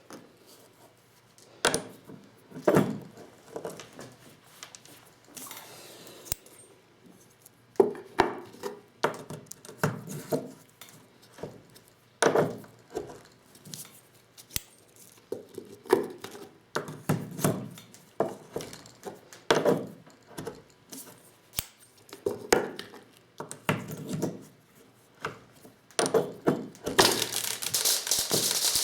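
Irregular clinks and knocks of hand-reloading 12-gauge shotgun shells with a Lee Loader set, as metal tools, shells and components are handled and tapped. A denser, hissing rattle comes near the end.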